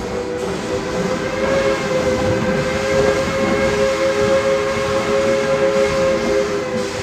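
Steam locomotive's whistle blowing one long, steady chord over the rumble of the train running.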